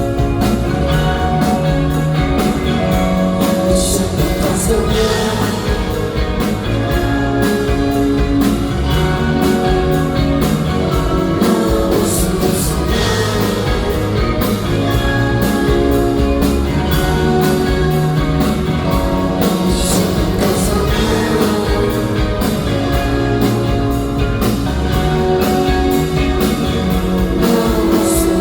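Live rock band playing loud with electric guitars and a drum kit, a steady beat with a cymbal crash about every eight seconds.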